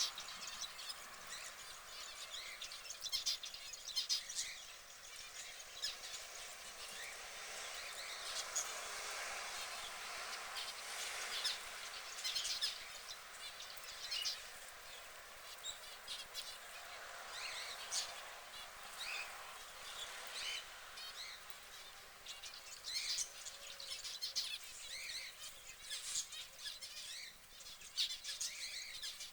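Small birds chirping: many short, scattered high chirps and tweets over a steady hiss.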